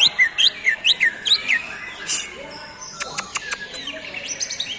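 Cucak ijo (green leafbird) singing: a fast run of loud, sweeping down-slurred whistles, about four a second. After a short pause come a few sharp clicking notes and then quicker, softer chirps.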